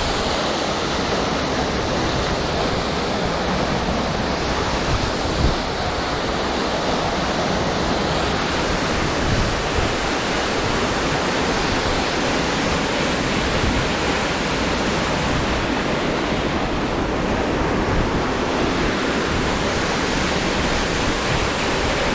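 Mountain stream rushing steadily down a rocky cascade: an even, loud hiss of white water.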